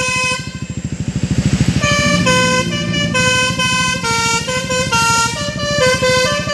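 Truck's basuri melody horn playing a tune of held, stepped notes over the low pulsing of the truck's diesel engine. The tune breaks off about half a second in while a rising hiss swells, then resumes around two seconds in.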